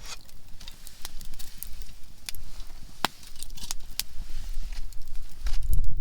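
Conifer firewood crackling and popping in a campfire: sharp, irregular pops, the loudest a little after three seconds in. A low rumble swells near the end.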